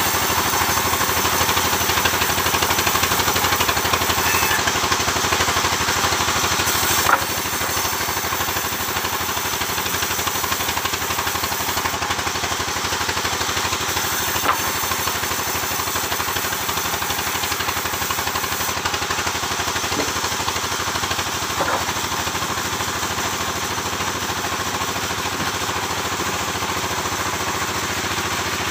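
Sawmill engine running steadily, with a few sharp knocks; the overall sound drops a little about seven seconds in.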